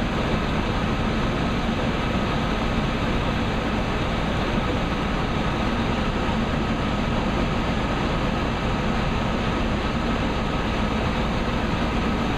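High-efficiency gas furnace running with its burners lit and inducer motor on: a steady, even machine noise with a faint low hum that does not change.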